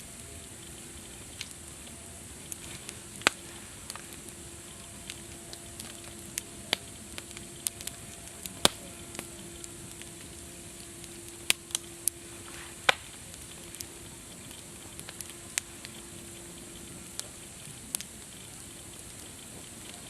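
Wood campfire crackling: irregular sharp pops and snaps over a steady soft hiss, with a few louder snaps scattered through it. A faint steady low tone sits underneath.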